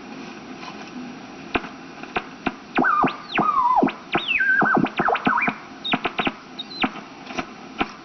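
Rogers tube radio being tuned across the band: static with crackles and squealing whistles that glide down in pitch as the dial passes stations.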